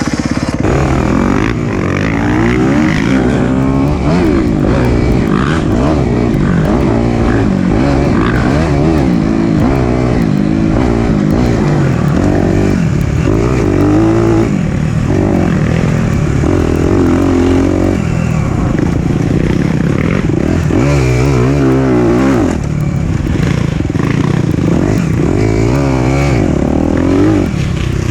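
Four-stroke single-cylinder dirt bike engine under riding load, coming in loud at once at the start and then revving up and down continuously through the throttle and gears.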